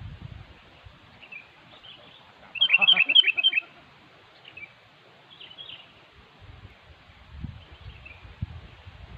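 Sooty-headed bulbul singing: one loud burst of quick chirping notes about three seconds in, with fainter bird calls before and after.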